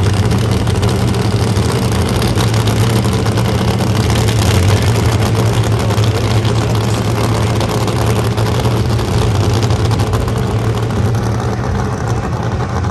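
Nostalgia nitro-burning funny car engine running loudly at a steady low-pitched idle.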